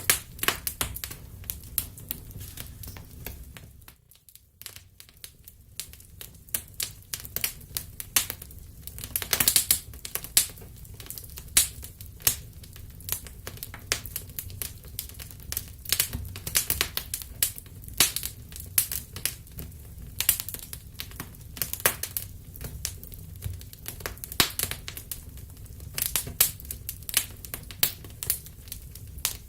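Wood fire crackling and popping: irregular sharp snaps over a low, steady rumble, briefly dying down about four seconds in.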